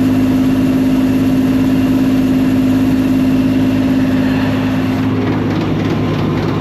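Combine harvester running steadily with a loud drone and a strong steady hum. The hum drops out about five and a half seconds in, and the overall sound eases a little.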